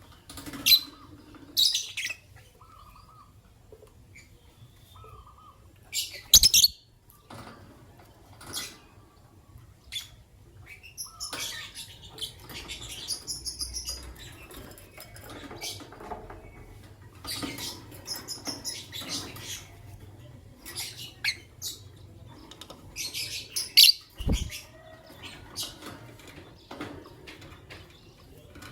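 Lovebirds chirping and squawking in short, high, scattered bursts, with a couple of sharp knocks about six seconds in and near the end.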